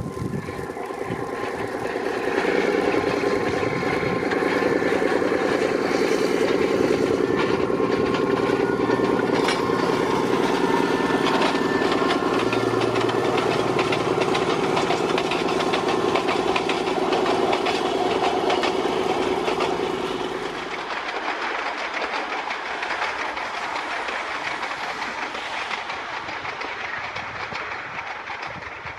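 Narrow-gauge diesel train on the Rhodope line running past: the locomotive's engine is loud with a steady hum, then about two-thirds through it drops away, leaving the quieter rolling noise of the wheels and carriages on the track.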